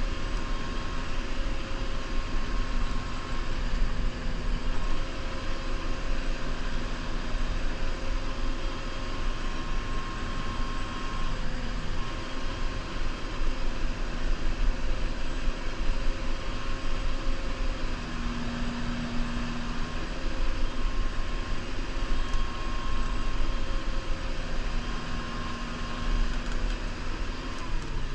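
New Holland Powerstar 75 tractor's diesel engine running steadily under load while plowing snow, with steady whining tones that come and go over the rumble. Its pitch drops just before the end as the engine slows.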